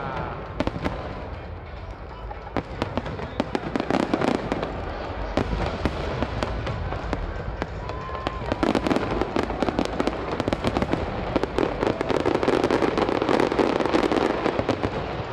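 Aerial fireworks display going off continuously: dense, irregular bangs and crackling shell bursts, with a few brief whistling glides.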